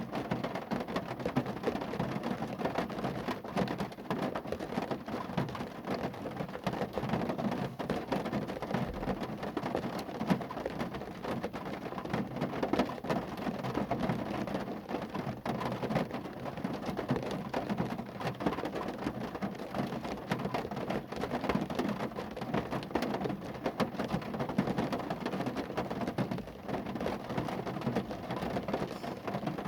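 Rain falling on a car: a steady, dense patter of drops striking the bodywork, with many small sharp taps.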